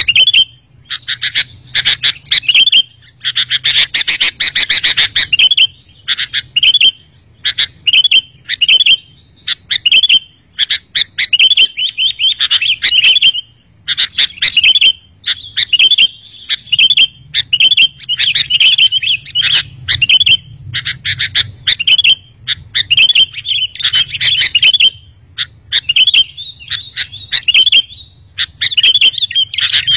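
Sooty-headed bulbuls (kutilang) singing and chattering almost without pause, in rapid runs of short, bright, bubbly notes.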